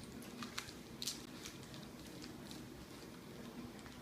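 Faint, scattered crackling of a chocolate bar's wrapper being handled and torn open.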